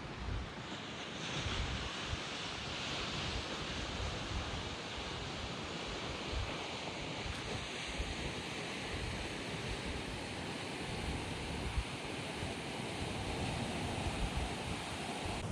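Rough sea surf breaking and washing against the rocky shore, one wave surging in loudly about a second in. Strong gusty wind buffets the microphone.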